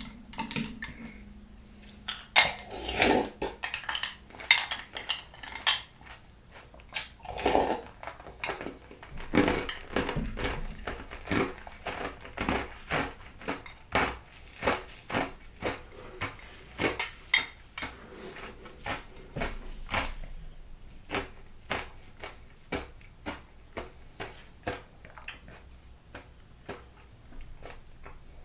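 Spoon clinking against the bowl and ice cubes while scooping fruit out of iced coconut water, close up. Dozens of sharp clinks, bunched in the first half and later coming singly about twice a second.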